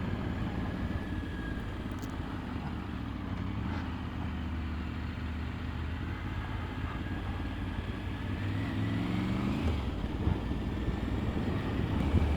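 Triumph Tiger 900 GT Pro's three-cylinder engine running on the road with wind and road noise. The engine note climbs steadily about eight seconds in, drops off sharply near ten seconds, then grows louder near the end.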